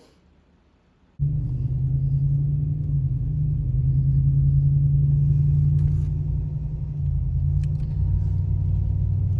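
A vehicle's engine and road rumble heard from inside the cabin while driving. It is steady and low, and it starts suddenly about a second in after a moment of near silence.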